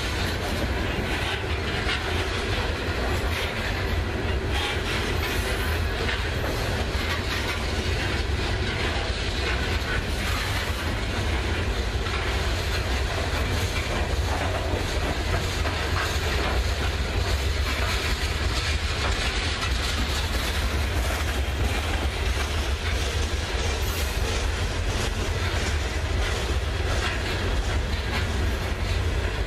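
Loaded coal hopper cars of a freight train rolling past, steel wheels rumbling and clicking steadily over the rails.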